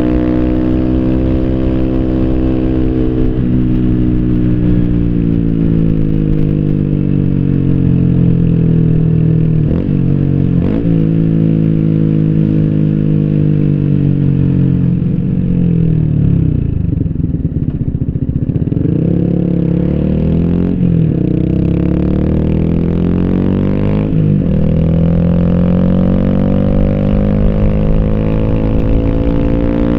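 Yamaha YZF-R125's single-cylinder 125 cc four-stroke engine through an Arrow slip-on exhaust with the dB-killer fitted, heard while riding. The engine note falls as the bike slows, with brief breaks at gear changes, sits lowest about halfway through, then rises again as the bike accelerates through the gears.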